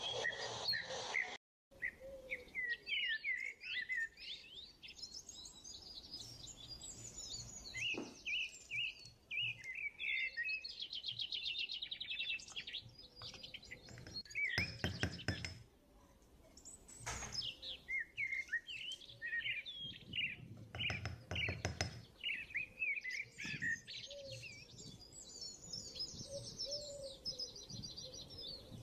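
Small birds chirping and twittering: many short rising and falling calls and trills throughout. There are two brief low rumbling noises, about halfway through and about two-thirds of the way through.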